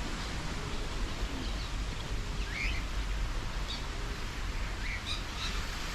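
Wild birds giving short, scattered chirps, several over a few seconds, over a steady low background rumble.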